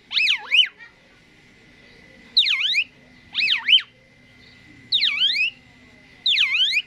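Asian pied starling (jalak suren) giving loud, repeated whistles: five short phrases of swooping notes that dip down and rise again, each about half a second long, with short pauses between them.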